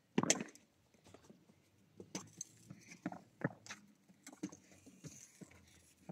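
Irregular light knocks and taps of floorball play: stick and plastic ball. The loudest knock comes just after the start, with scattered smaller ones after it.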